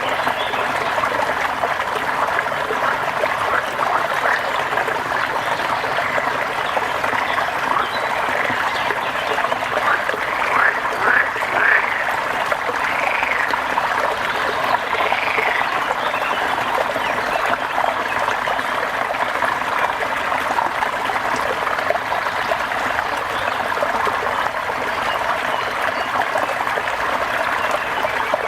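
Steady rain falling, an even dense hiss, with a few short arched calls from an animal standing out between about ten and sixteen seconds in.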